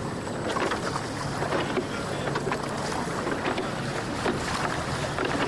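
Water splashing and slapping along a small boat's hull under way, with wind on the microphone and a low steady hum underneath.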